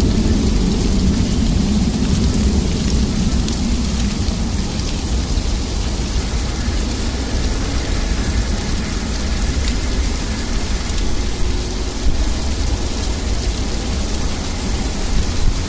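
Sleet falling steadily in a storm, an even hiss of pellets. A low rumble fades away over the first few seconds.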